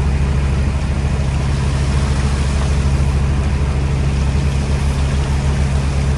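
Fishing boat's engine running with a steady, even low drone.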